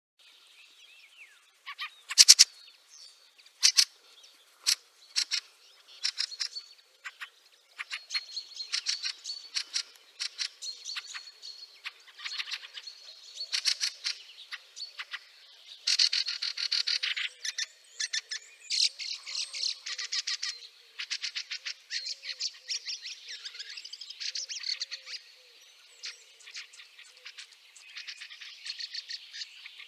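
Fieldfares chattering: a busy, unbroken run of short clacking calls and squeaky notes, with a few louder calls in the first few seconds.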